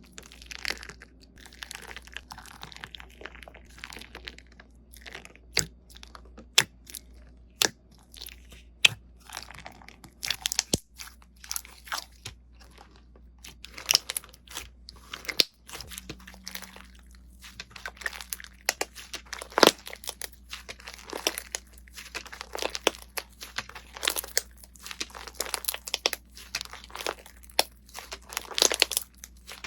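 Slime being squeezed and pressed by hand, giving dense, irregular sharp crackles and pops. There is a brief break about halfway through.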